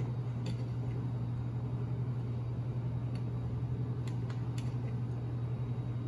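Steady low hum throughout, with a handful of faint short clicks of a spoon against a mixing bowl as a thick birdseed mixture is stirred, bunched in the middle.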